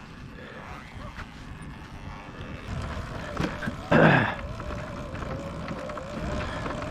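Sur-Ron electric dirt bike riding over rough off-road ground, heard from the rider's camera: a steady rumble of wind and terrain on the microphone, with a loud brief burst about four seconds in. After that a thin steady whine, typical of the electric motor, carries on.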